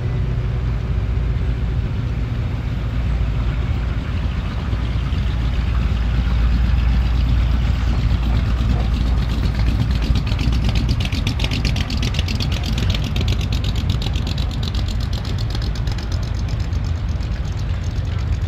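Engines of classic and custom hot-rod cars rumbling as they roll past one after another at walking pace, a deep steady exhaust note. About ten seconds in, a fast, even pulsing of exhaust comes in on top as another car nears.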